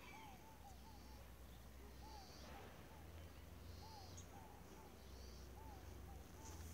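Faint bird calls: short notes that rise and fall, repeated in twos and threes, over a low rumble.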